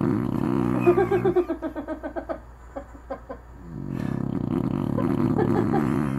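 A sleeping dog snoring. A long, low rumbling snore gives way about a second in to a quick flutter of pulses, about ten a second, followed by a few soft clicks. A second long snore starts near the four-second mark.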